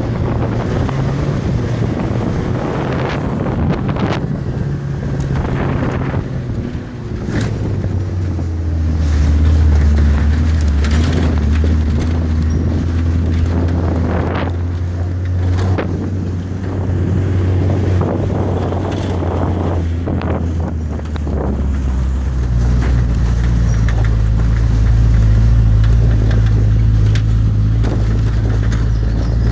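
Motor vehicle engine hum and road noise heard from inside a moving vehicle, with wind buffeting the microphone. The low engine hum shifts in pitch a few times as the speed changes, and there are occasional knocks from bumps.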